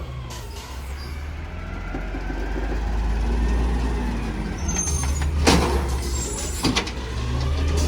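Garbage truck engine running, swelling over the first few seconds, with two sharp clanks about halfway through.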